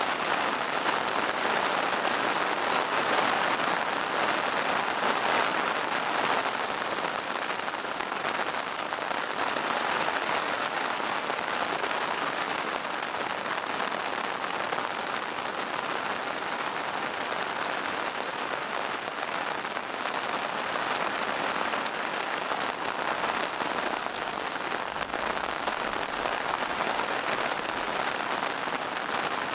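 Steady rain falling on forest foliage and moss-covered rocks, a dense even patter of drops.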